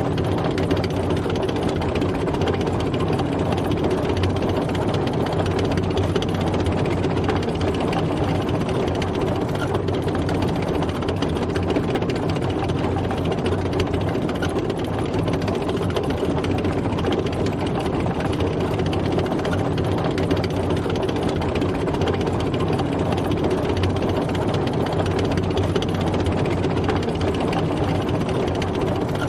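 Tank driving, its engine running steadily with no change in speed or load.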